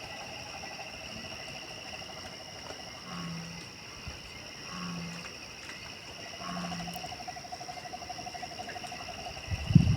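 Night chorus of insects and frogs: steady high-pitched trilling with a pulsing lower trill, broken by three short low hooting calls about a second and a half apart. A loud low thump near the end.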